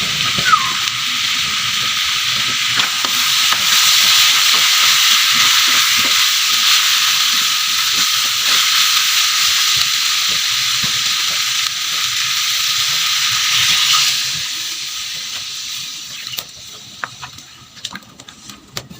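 Food sizzling as it fries in a pan; the sizzle dies away about three-quarters of the way through, followed by a few light clicks.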